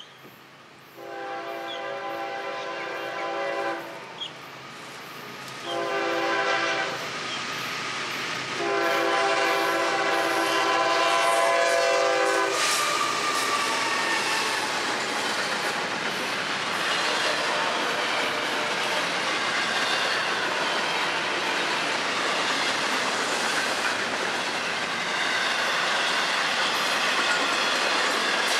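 Florida East Coast Railway freight locomotive's multi-note air horn sounding for a grade crossing: a long blast, a short one, then another long one. From about halfway in, the train passes close by: a steady rumble and clickety-clack of intermodal cars' wheels on the rails.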